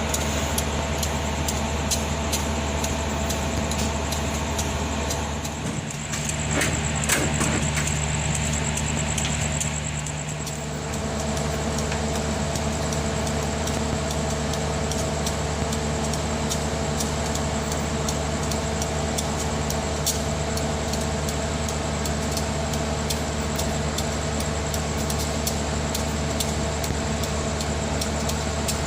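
Diesel train engine idling with a steady multi-tone hum while the train stands at a station, with a brief dip and change in the hum a few seconds in.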